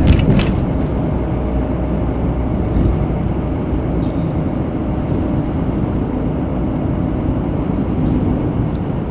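Steady engine and road noise of a vehicle being driven on the highway, with a short knock at the very start.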